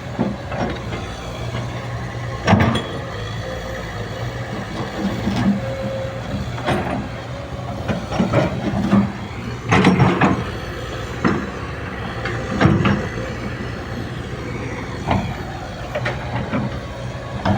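Hydraulic excavator running steadily under work, its engine droning low, with sharp knocks and clanks every second or few as the machine digs and shapes soil.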